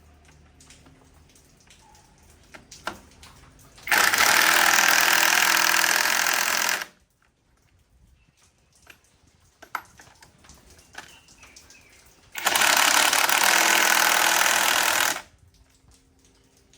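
Two loud, steady bursts of a workshop power tool, each about three seconds long and cut off abruptly, with small clicks and knocks of handled parts between them.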